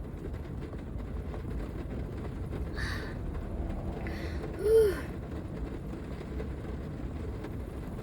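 A steady low rumble, with one short hummed 'mm' that rises and falls in pitch a little past halfway through.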